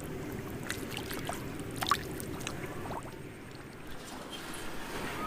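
Water sloshing and splashing in shallow floodwater, with scattered short splashes over a steady low rumble.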